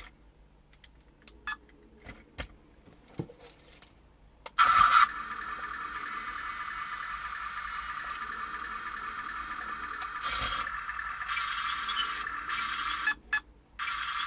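A few light clicks, then about four and a half seconds in a mini radio-control toy tank's small electric motor and plastic gearbox start with a loud burst and run on in a steady whirr, cutting out twice briefly near the end.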